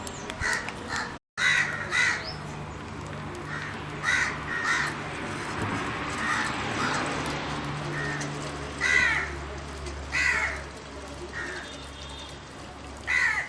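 Crows cawing repeatedly, about ten harsh calls spread across several seconds, over a low steady hum.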